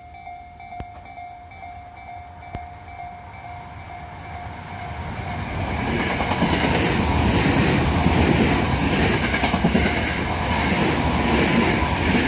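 Eidan (Tokyo Metro) 7000 series electric commuter train approaching and running past close by. The noise swells from about four seconds in to a loud, steady run of wheels rumbling and clattering on the rails.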